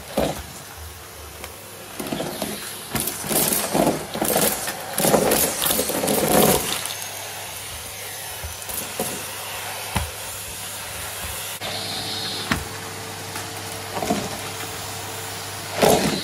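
Numatic Hetty cylinder vacuum cleaner running with a steady hum, with irregular bursts of crunching and rattling as debris is sucked up, busiest in the first half and again near the end.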